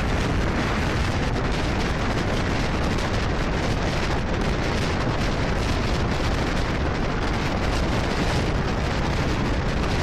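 Steady rushing noise of a double-decker passenger train running at speed, heard from outside the coach: wind rush mixed with the rumble of wheels on the rails, at an even level throughout.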